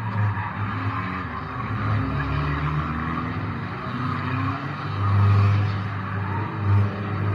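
Banger race car's engine heard from inside its own cabin, revving up and down as it drives, loudest about five seconds in.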